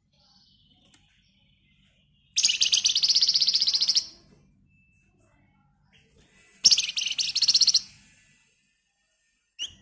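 Flamboyan songbird singing two loud, rapid rattling trills (the ngebren song), each about a second and a half long and a few seconds apart, with a few faint chirps between and a short sharp note near the end.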